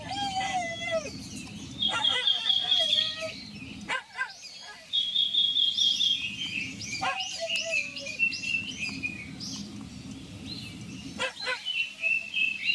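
Red-billed leiothrix singing. It gives fast phrases of repeated high notes that step down in pitch, heard twice, with scattered chirps between.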